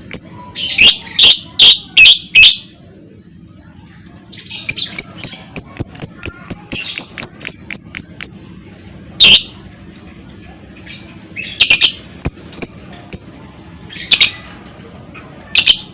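Lovebird calling: runs of short, sharp high chirps at about four a second, broken by louder harsh shrieks, five in quick succession about a second in and single ones later.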